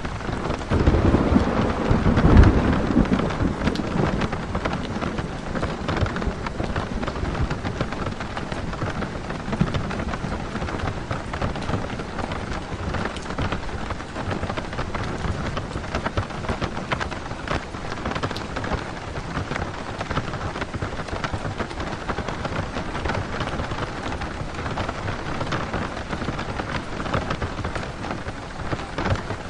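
Rain pattering on a camper van's roof, heard from inside, a dense steady patter of fine drop ticks. A low rumble of thunder swells about a second in and fades over the next few seconds.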